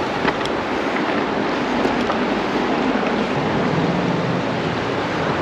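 Steady rushing of creek water with wind on the microphone.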